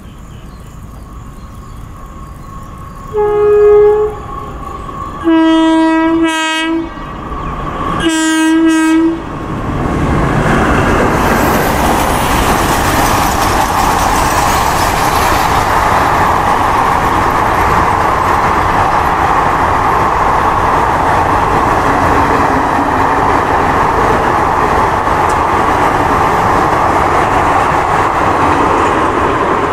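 WAP-4 electric locomotive sounding its horn three times: a short, higher-pitched blast, then two longer, lower ones. About ten seconds in the locomotive and its express coaches pass close by with a steady, loud wheel-on-rail rumble and clatter.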